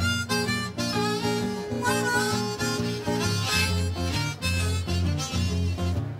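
Blues harmonica playing a melody with bent notes over a guitar accompaniment that keeps a steady, repeating bass line.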